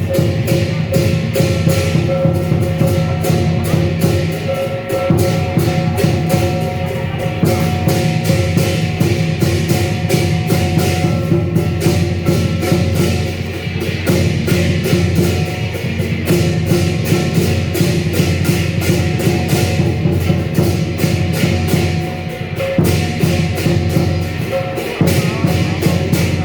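Chinese lion and dragon dance percussion: a big drum, cymbals and a gong playing a fast, continuous beat, with the cymbals and gong ringing on under the strikes.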